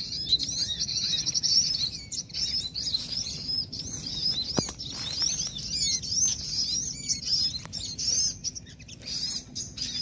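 Dense, high-pitched chirping of small songbirds, many short rising-and-falling notes overlapping without a break. There is a single sharp click about four and a half seconds in.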